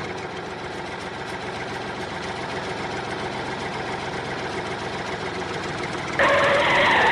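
A tractor engine running steadily, getting suddenly louder about six seconds in.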